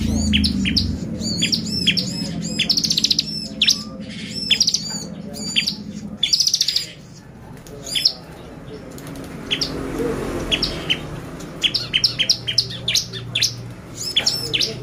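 Bar-winged prinia (ciblek) singing in a fast, excited run: rapid sharp high chirps with several short buzzy trills, easing off for a moment about two-thirds of the way through before picking up again.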